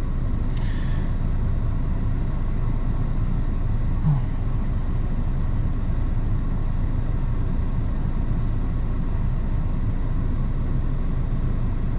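2006 Honda Accord engine idling steadily, running smoothly after being restarted.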